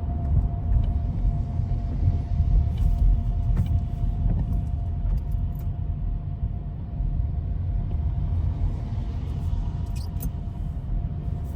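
A car driving on a road, heard as a steady low rumble of tyres and engine, with a faint steady whine and scattered light ticks.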